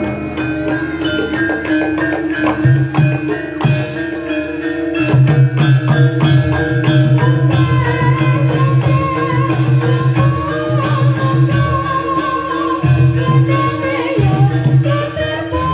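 Live Javanese gamelan music for a reog performance: drumming with many short struck metal notes over a steady drone, and a held, wavering melody line through the middle.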